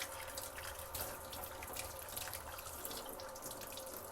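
Tap water running into a sink, splashing as hands are washed under it.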